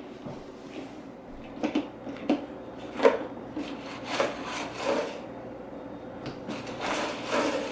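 A series of irregular knocks and rubbing sounds, about seven sharp ones spread unevenly, over a faint steady hum.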